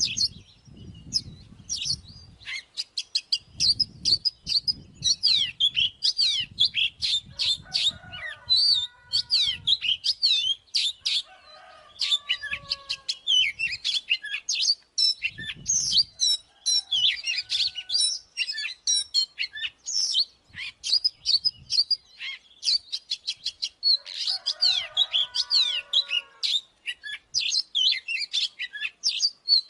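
Oriental magpie-robin singing a long, rapid, varied song of sharp whistles and chattering notes, with occasional lower, slurred whistled phrases.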